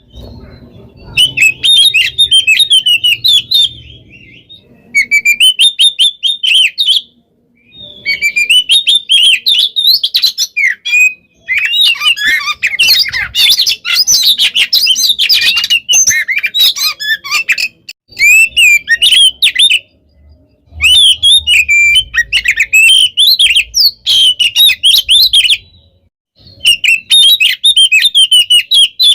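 Oriental magpie-robin (kacer) singing loudly and vigorously: phrases of rapid, twisting whistled notes a few seconds long, with brief pauses between them. A denser, unbroken burst of song comes about halfway through.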